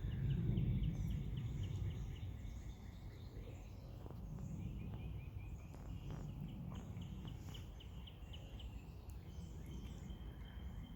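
Outdoor background noise: a low rumble, with a bird giving several runs of quick, high chirps.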